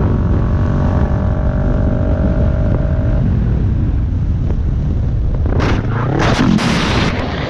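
Motorcycle riding with a loud, steady engine and road rumble. A steady tone sounds over it for the first three seconds, then stops. Near the end come several short, harsh bursts of noise.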